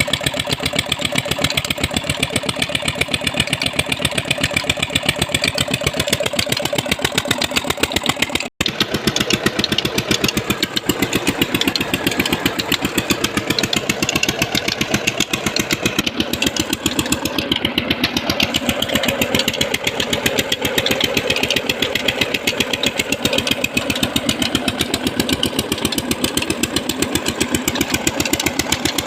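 Old Petter diesel engine running steadily on a tube well pump, its firing pulses keeping an even rhythm, with a momentary break in the sound about eight seconds in.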